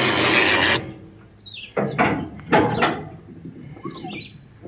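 A 2,500-pound electric winch running under heavy load and cutting off sharply under a second in. After it come a few separate knocks and clanks, with birds chirping.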